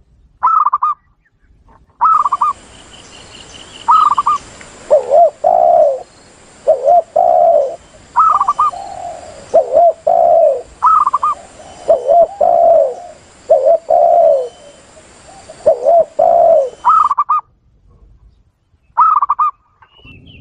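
Spotted doves and zebra doves cooing over and over, played as a lure call track. Short, quickly pulsed higher coos alternate with lower, longer coos, with a faint high hiss behind them.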